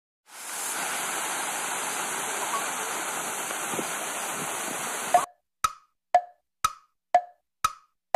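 Steady rushing of a flowing river, cut off abruptly about five seconds in. A wood-block-like tick then starts, about twice a second, opening a backing music track.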